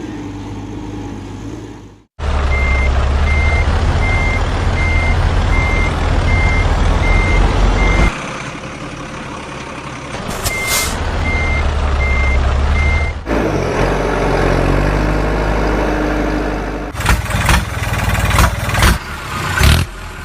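A vehicle's reversing alarm beeping at an even pace, about one and a half beeps a second, over a loud heavy engine rumble. It stops after a few seconds and starts again. Near the end come a run of sharp knocks.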